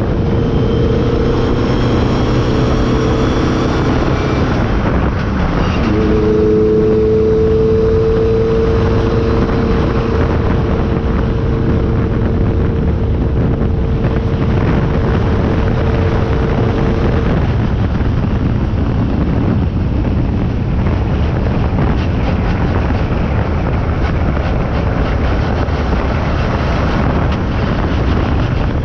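Car driving with heavy wind buffeting on the microphone, its engine holding a steady note that fades out a little past halfway.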